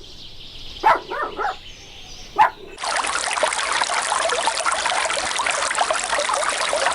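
A dog gives a few short barks, then a loud, steady rush of running water with a fine crackle takes over about three seconds in and cuts off abruptly near the end.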